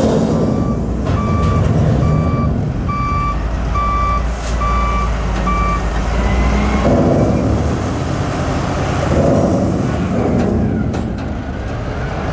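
A heavy vehicle's reversing alarm beeping in a steady rapid series, about two beeps a second, stopping about six seconds in, over the low rumble of a heavy engine running that carries on throughout.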